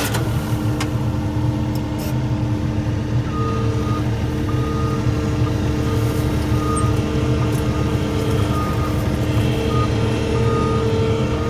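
Skid steer engine running steadily with a constant whine. From about three seconds in, its backup alarm beeps repeatedly as the machine reverses.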